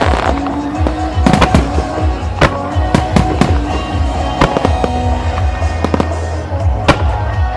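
Starmine fireworks bursting in quick, irregular succession, a dozen or so sharp bangs with crackle. The show's music plays underneath.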